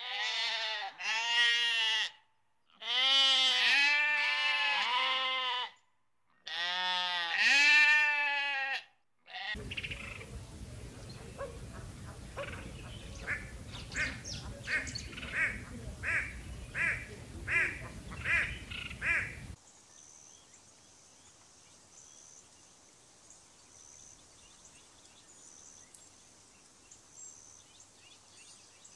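Bleating livestock: about five loud, wavering bleats in quick succession. After a cut, a run of short repeated calls over a steady hiss, about one and a half a second, then a much quieter stretch with faint, regular high ticks.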